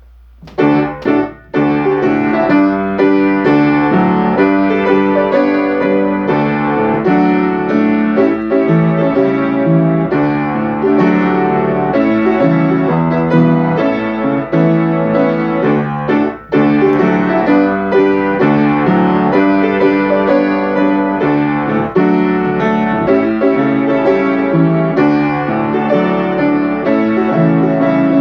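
Piano or electric keyboard playing a slow piece in held chords, starting about half a second in.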